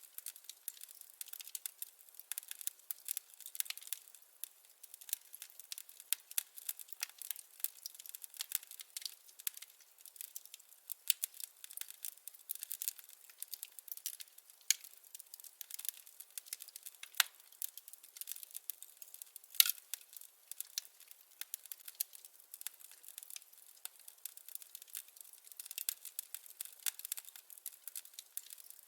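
Wood fire crackling: a continuous run of small snaps and pops, with two louder pops a little past halfway.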